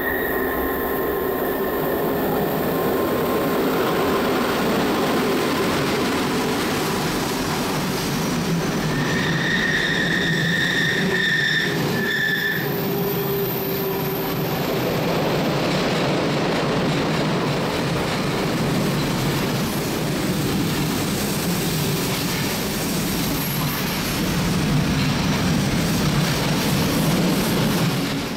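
A train running on the Semmering railway: a steady rumble of wheels on rail, with a high wheel squeal from the tight curves, loudest about nine to twelve seconds in.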